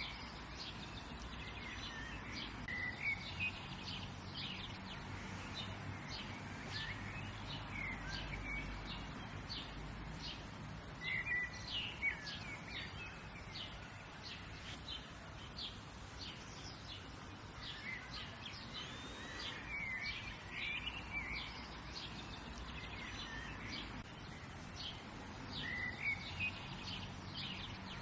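Ambient birdsong: several small birds chirping and calling on and off, with quick high chirps and a few short warbled phrases, over a steady background noise.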